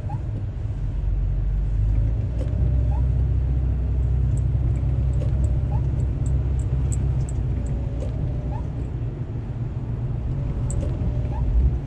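Car driving on the road, heard from inside the cabin: a steady low road and engine rumble, with a faint squeak that recurs every few seconds and a few light ticks.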